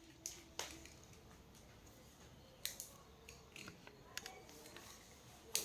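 Faint scattered clicks and light taps of small tools and parts being handled on a workbench, with a sharper click near the end.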